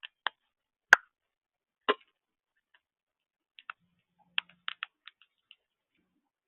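Irregular short, sharp clicks and taps from birds at a feeder, about a dozen with gaps between, the sharpest about a second in.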